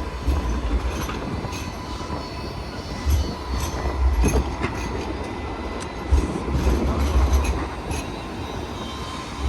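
Light rail tram running through the stop, with a steady high whine or wheel squeal over low rumbling that comes and goes, and occasional clicks.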